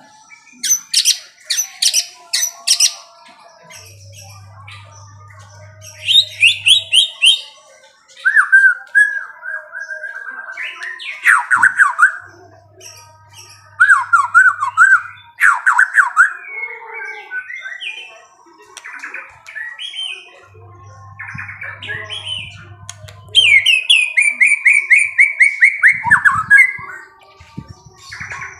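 A songbird calling in loud bursts of rapid chirps, sweeping whistles and falling trills, with short pauses between phrases.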